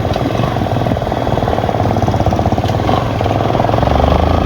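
Motorcycle engine running steadily with a rapid, even exhaust pulse, growing a little louder near the end.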